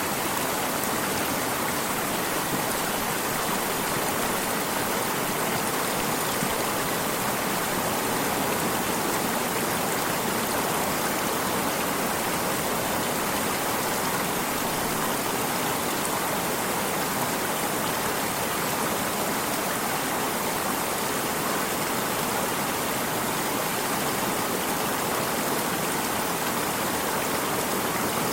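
A flowing stream: water rushing and babbling over rocks in a steady, unbroken wash.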